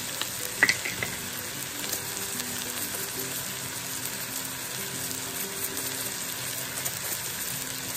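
Red onions and garlic sizzling steadily as they fry in a frying pan, with one short clink about half a second in.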